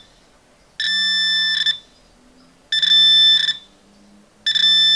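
Handheld metal-detector pinpointer giving its alert: three steady high beeps of about a second each, roughly two seconds apart, each with a low buzz alongside, as its tip is brought near screws in a wooden bench.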